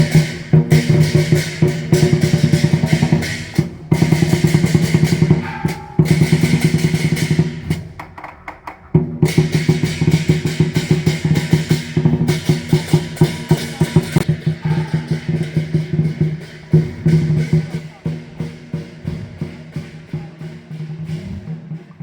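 Temple-festival drumming: drums beaten in fast, dense rolls that break off briefly several times and start again, growing softer over the last several seconds.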